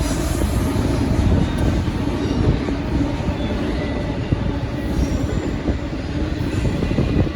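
Freight train cars rolling past, with a steady noise of steel wheels on the rails.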